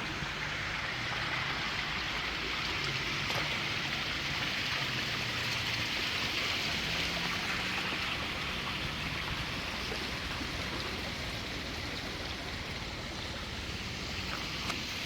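Steady rushing of flowing water, with a faint low hum underneath.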